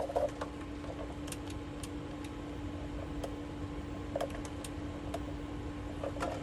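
A steady low electrical hum from the radio test bench, one unchanging tone, with a few faint scattered clicks.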